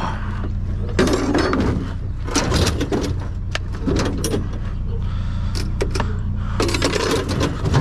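Scrap and junk being rummaged through and handled: irregular clatters and knocks of metal and hard objects, over a steady low hum.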